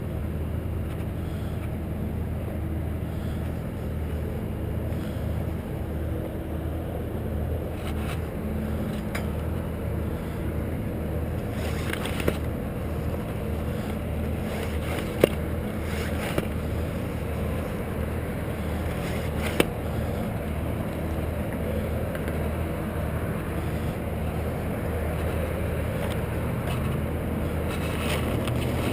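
Steady engine drone, running evenly without change in pitch, with a few sharp clicks or knocks over it.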